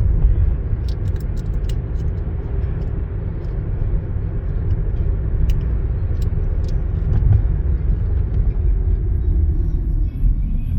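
Car cabin noise while driving: a steady low road-and-engine rumble with a hum that drops in pitch near the end as the car slows. A few light clicks about one to two seconds in and again around six seconds.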